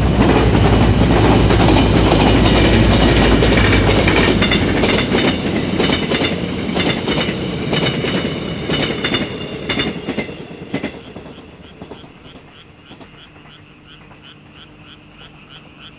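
S-Train diesel-hauled passenger train passing: a heavy low rumble from the locomotive first, then the clickety-clack of the coaches' wheels over rail joints, with some ringing wheel squeal. It fades away about eleven seconds in. After that, frogs croak steadily from the flooded rice paddies, about two calls a second.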